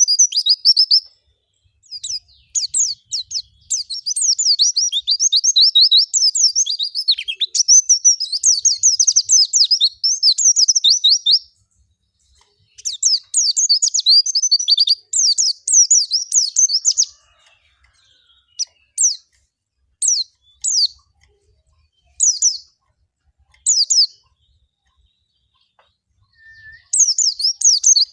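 White-eye (pleci) singing a rapid, chattering high chirp song in long phrases, broken by gaps of a second or two and a few short single calls in the middle stretch. It is the wild-type 'ngalas' song used as a lure track to get other white-eyes singing.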